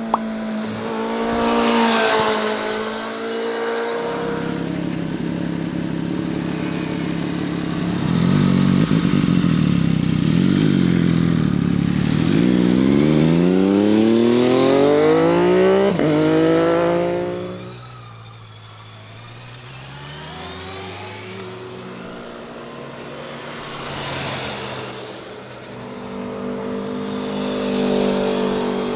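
Motorcycles riding past one after another, engines revving and accelerating. The loudest pass comes about halfway through, its engine note climbing steeply before it cuts away; another bike's engine rises again near the end.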